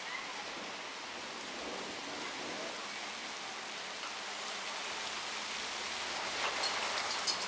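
Steady rain falling, getting a little heavier, with a few sharp ticks near the end.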